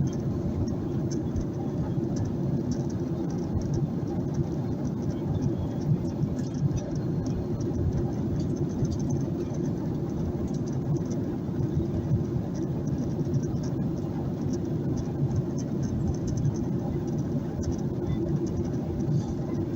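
Steady cabin noise of a Boeing 737-800 climbing after takeoff, heard from inside the cabin: an even, low rumble of its CFM56 engines and the airflow, unchanging throughout.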